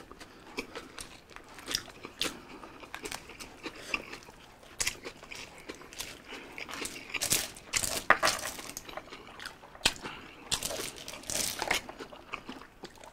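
Close-up chewing and biting of biryani rice and chicken pieces eaten by hand, with irregular wet smacks and small crunches, and hands rustling in foil-lined takeaway trays.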